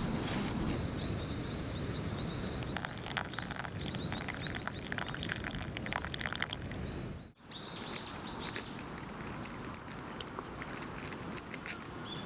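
A bird chirping in runs of quick, short, high notes, twice, over a steady low outdoor rush, with scattered sharp crackles in between.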